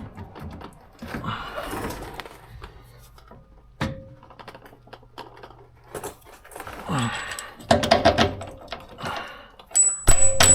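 Steel suspension parts being fitted together: a link arm and its bolts scraping, clinking and knocking into the frame and axle brackets. Near the end come a quick run of metal knocks and a ringing clang.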